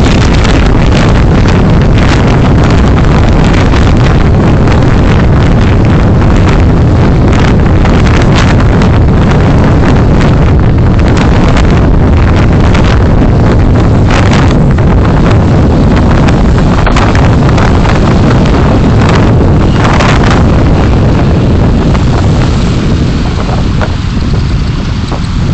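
Loud, steady road and wind noise from a moving vehicle, picked up by a dash camera's microphone, with heavy wind rumble and gusts on the mic; it eases a little near the end.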